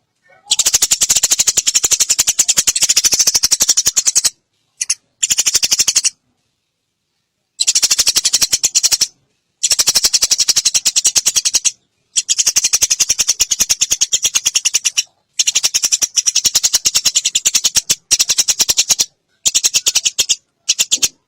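Eurasian tree sparrow's fighting chatter: very rapid, dry chirps strung together in bouts of one to three seconds that start and stop abruptly, with short gaps between.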